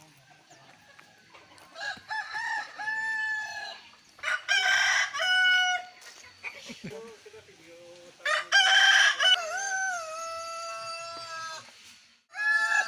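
Roosters crowing, four long crows one after another, the calls at slightly different pitches, with a fainter, lower call between them.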